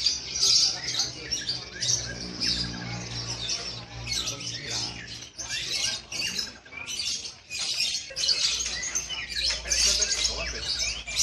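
Several lovebirds chirping and trilling at once in dense, shrill, overlapping bursts with only brief pauses.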